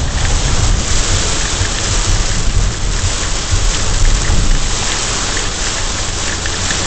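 Heavy rain pelting the windshield and roof of a moving car, heard from inside the cabin as a dense, steady hiss with a low rumble underneath.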